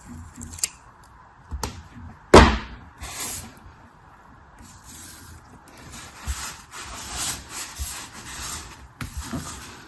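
Hands unpacking a product: a few light clicks, a sharp knock about two and a half seconds in, then rustling of packaging in stretches.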